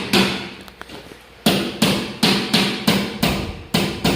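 Repeated sharp knocks, about three a second, like hammering, with a break of about a second near the start, over a steady low hum.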